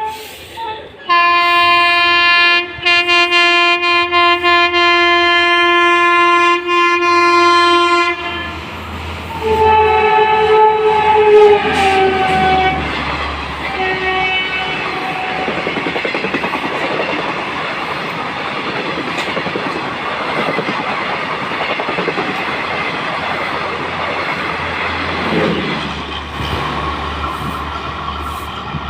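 Indian Railways locomotive horn sounding one long steady blast of several seconds, then blowing again with its pitch dropping as the train reaches and passes, followed by a short toot. After that comes the continuous loud rush and wheel clatter of a train of ICF coaches passing at high speed.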